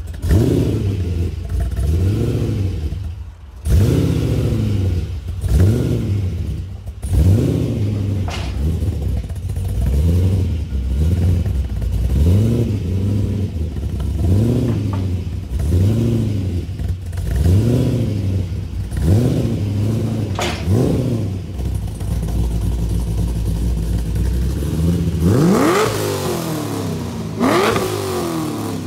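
Chevrolet Corvette's V8 being revved over and over through its exhaust, the engine speed rising and falling about every second and a half. Near the end come two sharper blips that drop away quickly.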